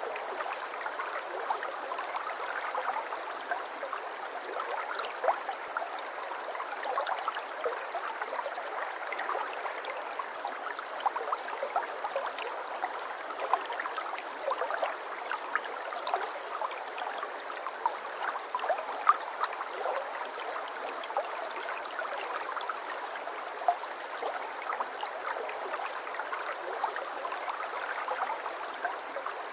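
Shallow brook babbling steadily, with a constant rush of water and many small splashes and plinks of water over stones.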